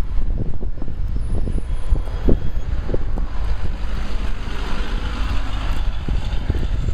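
Wind buffeting the microphone in a low, gusting rumble, over road traffic on a freeway, with a hiss of passing vehicles swelling a little past the middle.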